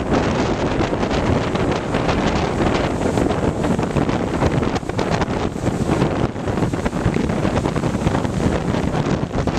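Strong hurricane wind blowing across the microphone in a steady, loud rush.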